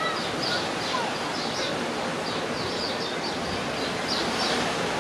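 Small birds chirping repeatedly, short high falling chirps about three a second, over a steady wash of outdoor noise.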